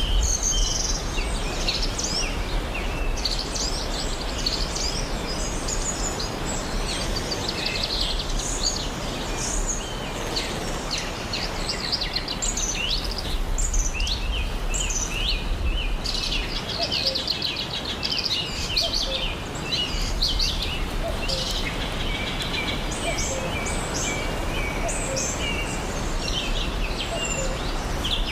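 Steady rush of a waterfall, with many birds chirping and trilling over it throughout.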